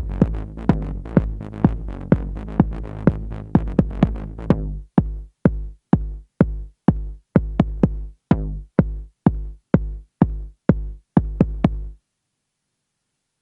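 Acid techno from drum machine and synthesizers: a steady kick drum about twice a second under a synth bassline. A little before halfway the sustained layers drop out, leaving short, clipped kick-and-bass hits. The music cuts off abruptly about twelve seconds in.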